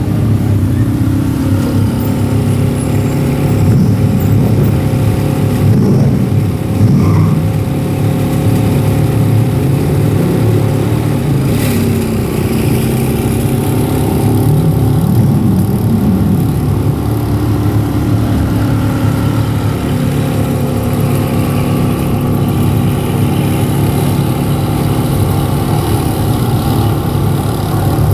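Sports car engines idling in a slow queue, a steady low running sound, with several short throttle revs that rise and fall in pitch.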